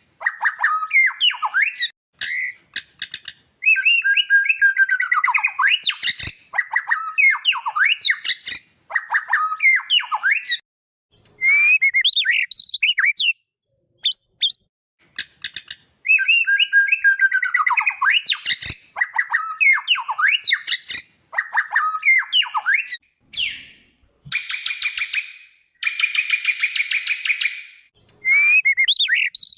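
White-rumped shama singing: varied phrases of rich whistles, sweeping notes and rapid trills, broken by short pauses. Near the end it gives a few seconds of harsh, buzzy rattling calls before the whistled song resumes.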